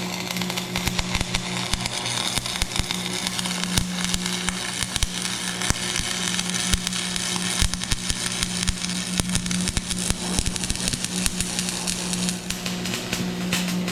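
Stick (arc) welding: the electrode's arc crackling and spitting continuously over a steady low hum from the welding machine.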